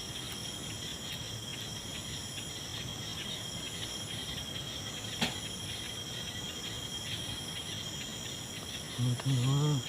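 Steady chorus of night insects such as crickets, a continuous high-pitched shrilling in several layers, some of them pulsing on and off, with one sharp click about five seconds in.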